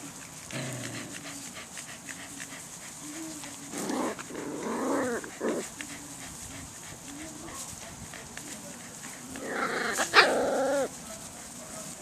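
Swedish Vallhund puppies whining and yipping, in two short bouts: one about four seconds in and a louder one near the end.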